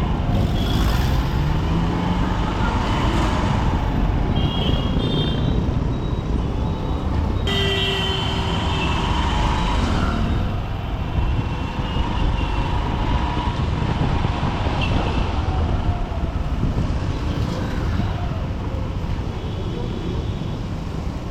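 Honda SP125's single-cylinder four-stroke engine running steadily while riding in dense city traffic, with a constant traffic rumble and short horn toots from surrounding vehicles now and then.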